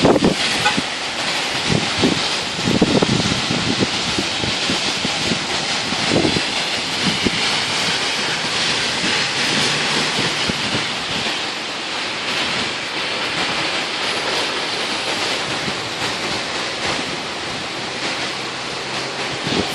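Heavy rain falling in a steady hiss, with a few low rumbles of wind buffeting the microphone during the first several seconds.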